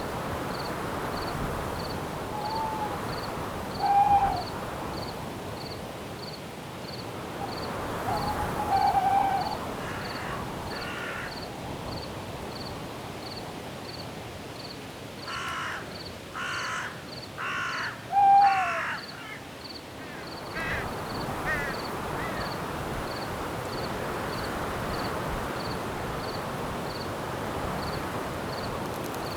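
Night forest ambience: a steady hiss of wind in the trees under a faint cricket chirping about twice a second. An owl hoots a few times in the first third, each hoot dropping at the end, and about halfway through a bird gives four short, harsh calls in quick succession.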